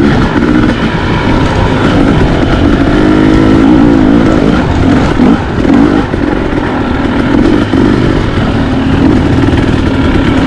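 Dirt bike engine running under way, its pitch rising and falling several times as the throttle is opened and closed.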